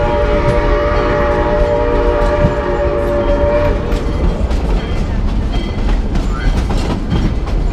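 Steam locomotive whistle held in a long steady chord, stopping about halfway through, over the continuous rumble and clatter of the moving train.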